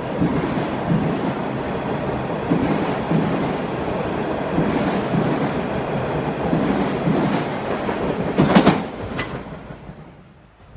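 Toronto TTC subway train running, its wheels clacking over rail joints at a regular beat of about one to two clacks a second. There is one loud sharp clack near the end, then the train sound fades away quickly.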